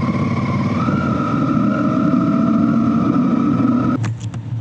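Motorcycle engine running steadily under way, with a thin whine that rises slightly in pitch about a second in. About four seconds in, the sound drops off abruptly.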